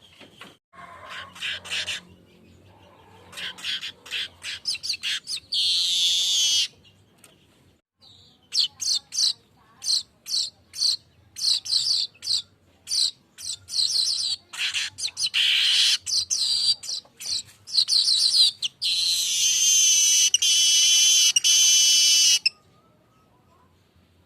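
Golden-headed manyar weaver singing: runs of sharp ticking chips broken by long, buzzy, wheezing song phrases, the longest near the end, before it falls quiet.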